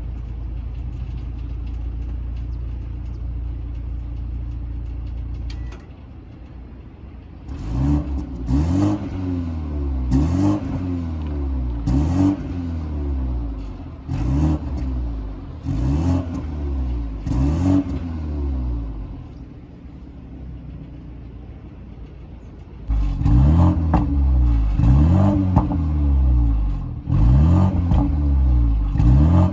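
BMW 330i's turbocharged four-cylinder engine and active exhaust idling, then revved in repeated short blips about every two seconds, each rising and falling in pitch. The engine settles back to idle for a few seconds, then takes another run of louder, quicker revs near the end.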